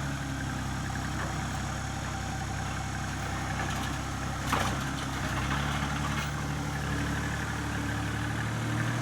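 An engine idling steadily, with one sharp knock about halfway through.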